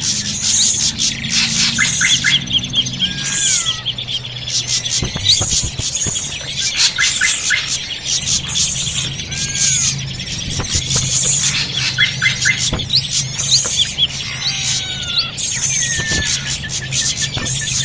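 A busy chorus of drongo (srigunting) calls from a bird-lure recording. Rapid chirps, trills of quickly repeated notes and short down-slurred whistles overlap without a break, over a steady low hum.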